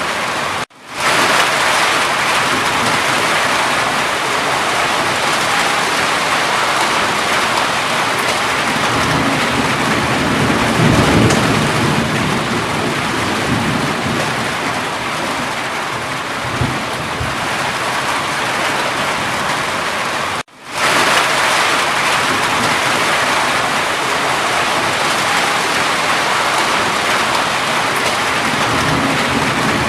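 Steady, heavy rainfall with low rumbles of thunder swelling about a third of the way in and again near the end. Twice the sound cuts out suddenly and fades back in: about a second in and about two-thirds of the way through.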